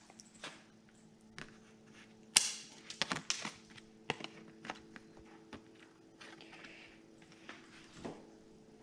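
A toy's packaging being opened by hand: scattered clicks and crackles, with a louder tearing rip about two and a half seconds in. A faint steady hum sits underneath.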